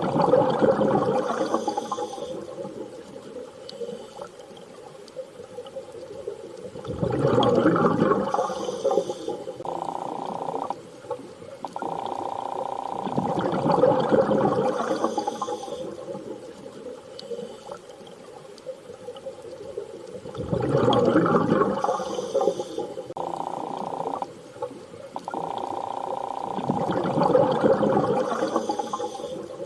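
Underwater water sound with a rushing, bubbling surge that comes back about every six to seven seconds, five times. Between the surges a steady hum-like tone switches on and off abruptly.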